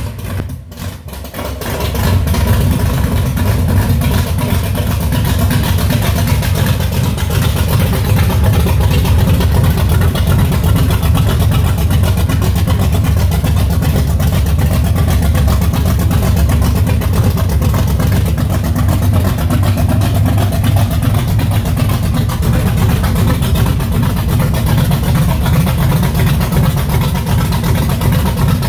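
1964 Chevrolet Nova wagon's engine running with no exhaust system fitted, a loud, steady low rumble that comes up about two seconds in, as the car is driven slowly out onto the driveway.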